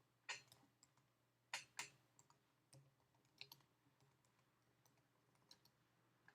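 Faint, irregular clicking of a computer keyboard being typed on, a few taps at a time with short pauses between.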